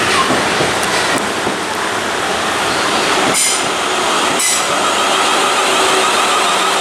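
A South Western Railway multiple-unit passenger train runs along the platform with a steady rumble of wheels on rail. Two sharp clunks sound about three and four and a half seconds in, and a steady whine comes in after about five seconds.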